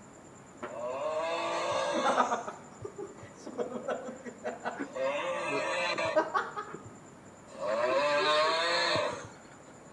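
A cat meowing in three long, drawn-out calls with a wavering pitch, each lasting about a second and a half, with a few light clicks and knocks between them.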